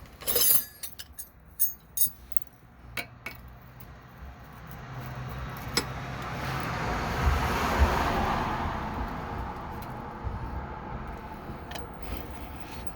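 Metal wrenches clinking against each other several times in the first few seconds as tools are swapped. Then a passing vehicle's noise with a low hum swells to a peak past the middle and slowly fades.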